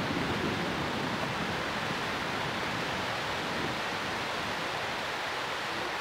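Steady rushing of floodwater pouring out through a dam's floodgates, an even hiss with no breaks.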